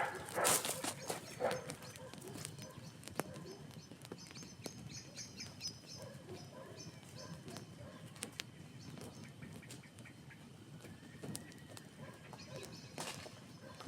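Campfire crackling with scattered sharp pops, the loudest in the first second or so. Small birds chirp in the background.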